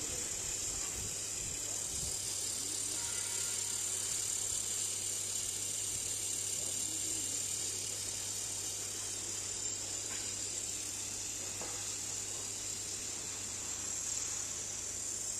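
Handheld fiber laser welding machine running: a steady high-pitched hiss over a low steady hum.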